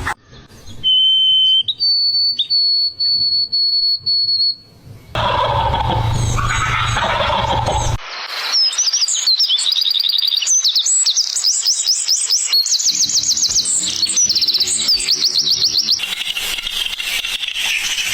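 Birdsong in several cut-together segments: first a steady, high, pure whistle held for a few seconds, then, after a rougher stretch, a long run of rapid, repeated high chirps that sweep downward.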